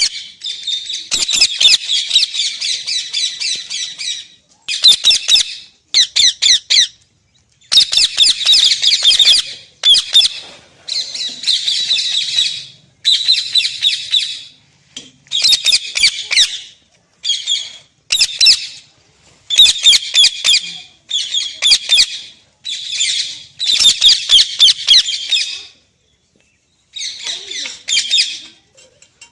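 Pet parrot squawking, a long series of harsh screeches in bursts of a second or two with short pauses between them.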